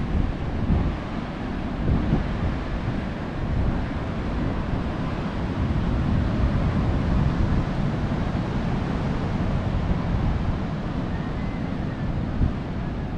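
Ocean surf washing in a steady rush, with wind buffeting the microphone in an uneven low rumble.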